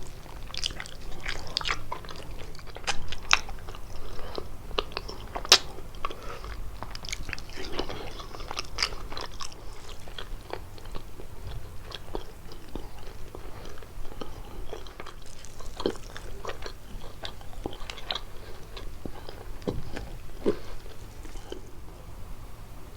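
Close-miked biting and chewing of kalaj, thin pastry sheets filled with walnuts and cheese, with many irregular crisp crackles and crunches.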